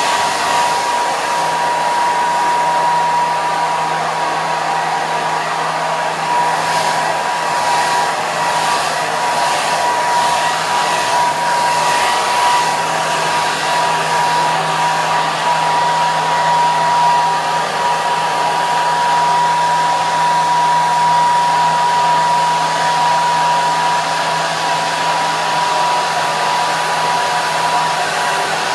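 Hair dryer running steadily: a continuous rush of air with a fixed high whine from the motor and a low hum underneath.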